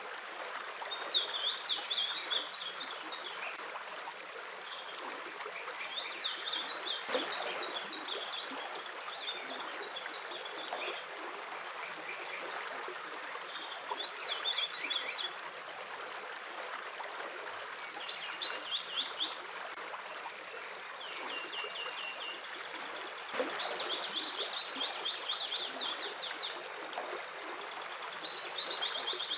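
A stream running steadily, with several songbirds singing over it in short, rapid trilled phrases. The birdsong grows busier in the second half, adding higher notes.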